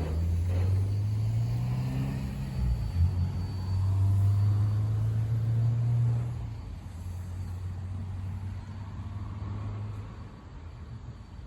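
Engine running with a low, steady rumble, its pitch rising briefly about two seconds in; it grows fainter after about six seconds.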